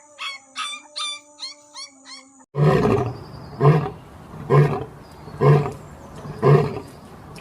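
A big cat roaring in a rhythmic series of five deep, grunting roars, about one a second, starting suddenly about two and a half seconds in. Before that come short, higher-pitched calls from another animal.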